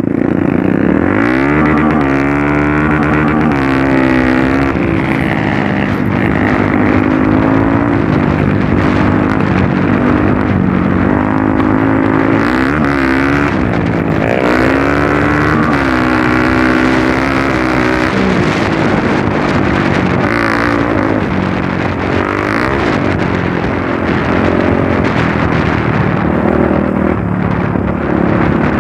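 Trail motorcycle engine running under way, its pitch rising and falling again and again as the throttle opens and closes.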